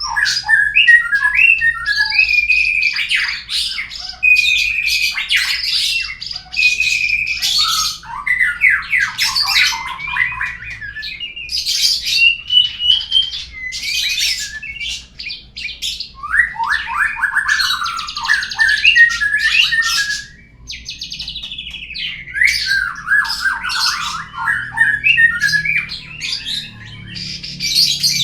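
Murai (Copsychus songbird) song played as a lure call: a loud, varied string of whistled glides, rapid trills and harsh squawky notes, with only brief pauses.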